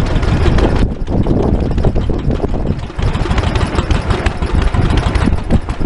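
Vintage stationary engine running with a dense, uneven run of low pulses.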